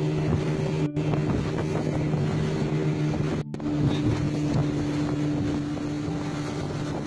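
Small boat's engine running steadily with wind and water noise, the sound cutting out briefly twice.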